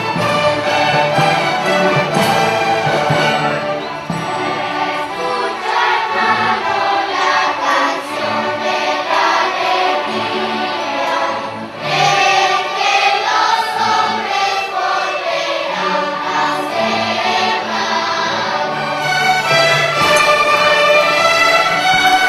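Large youth orchestra playing with voices singing along. The sound changes abruptly about nineteen seconds in.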